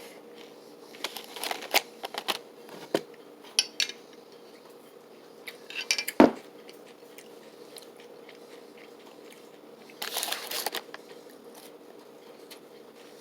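Small handling noises: scattered light clicks and clinks, a single sharp knock about six seconds in that is the loudest sound, and a short scraping burst near ten seconds. A faint steady hum runs underneath.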